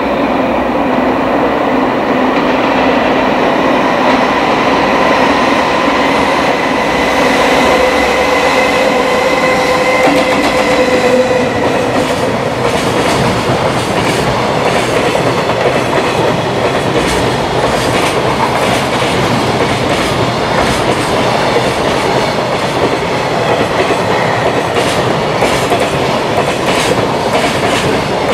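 Electric freight locomotive passing close, its motors giving a steady whine at several pitches that fades after about twelve seconds. A long container train follows, rolling by with a steady rumble and quick clickety-clack of wheels over the rails.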